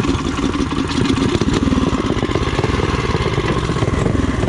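Coleman CT200U mini bike's small single-cylinder four-stroke engine running steadily under throttle with a rough, rapid firing beat, as the bike strains against a rear brake that is locking up.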